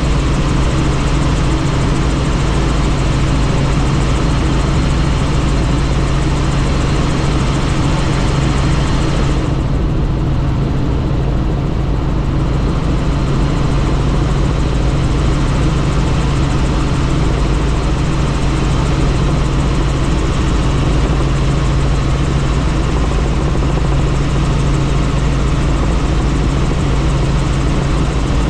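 Helicopter in flight, heard from aboard: a steady, loud drone of engine and rotor with a low hum and rushing air. The higher hiss drops away briefly about ten seconds in, then returns.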